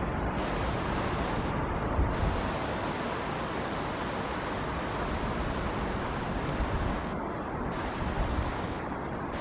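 Rain falling steadily, an even hiss, with a few low thumps near the start and near the end.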